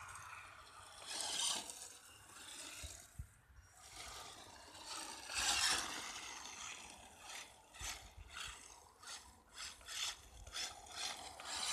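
Gravel crunching and scraping in bursts, ending in a run of short crunches about twice a second.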